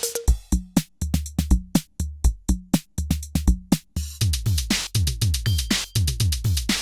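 Korg drumlogue drum machine playing a preset pattern: electronic kicks with falling pitch, hi-hats and percussion hits over a low bass line, with the groove changing about four seconds in as the next preset comes up.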